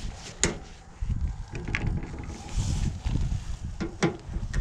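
A few sharp clicks and knocks from hands and tools working a wire clip at a mini-split outdoor unit's wiring terminal, the loudest about half a second in and two near the end, over low handling rumble.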